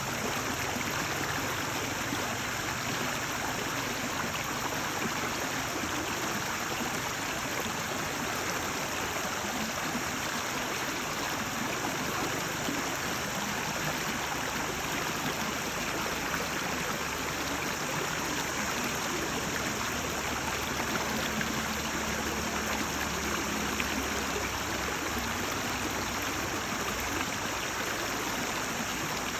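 A stream babbling as it flows over rocks, a steady, unbroken rush of water.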